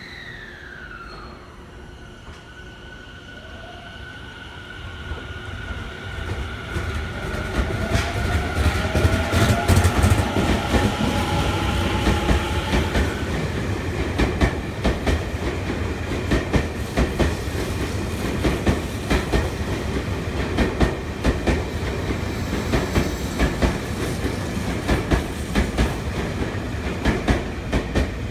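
Tobu 50050 series electric train pulling away: its inverter-driven traction motors whine, with steady tones and a rising tone that climb in pitch and grow louder over the first several seconds. After that the wheels clatter over the rail joints in quick, uneven clicks, with a heavy rumble, as the cars pass close by.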